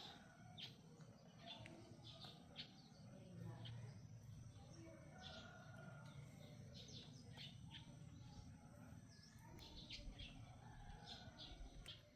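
Near silence, with faint short bird chirps scattered through it over a low background hum.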